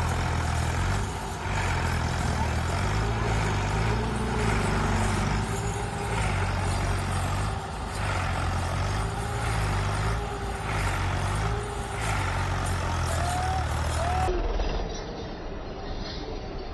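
Heavy machine engine running with a low rumble that pulses every second or two; about 14 seconds in it gives way abruptly to a quieter, different sound.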